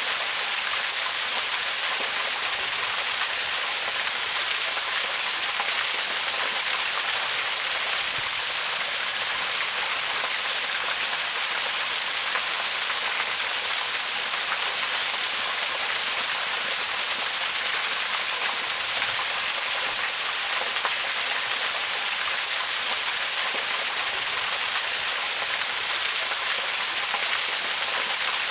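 Waterfall: a steady, even rush of falling water, with most of its energy in the higher hiss and little low rumble.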